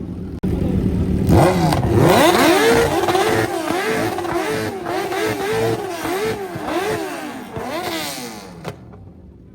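A car engine revved repeatedly, its pitch rising and falling about twice a second, then cut off abruptly near the end.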